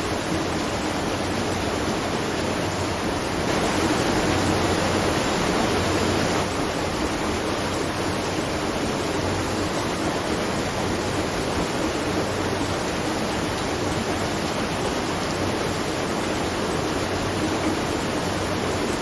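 Water rushing and splashing at a watermill, a steady, even rush that grows a little louder for a few seconds about four seconds in.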